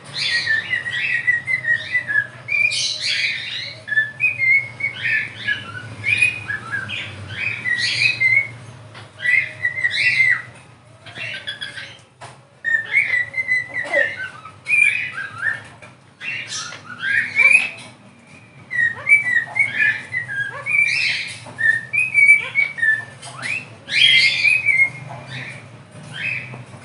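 Parrots chirping and whistling in quick runs of short, pitch-bending calls, with brief pauses between runs.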